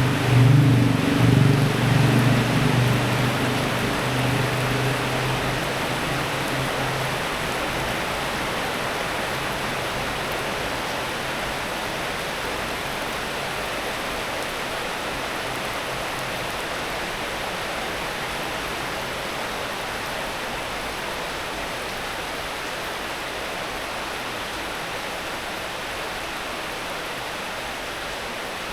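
Steady rain falling, an even hiss. A low rumble at the start fades away over the first several seconds.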